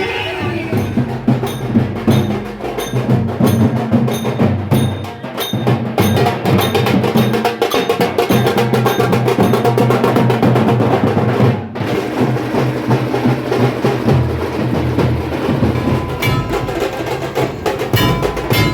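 Fast, loud drumming with rapid sharp strokes over music with a steady low bass line.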